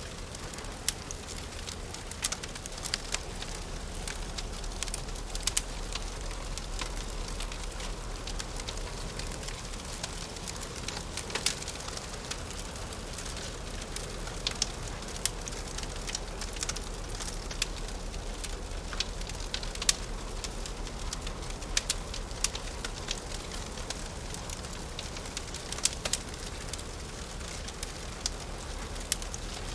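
Fireplace crackling, with a steady hiss and frequent irregular sharp pops.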